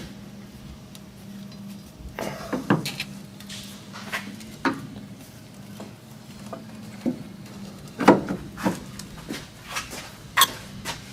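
Steel steering-linkage parts, a drag link and its ball end, clinking and knocking together as they are slid and fitted by hand: a dozen or so short, sharp metallic clicks at uneven intervals, over a steady low hum.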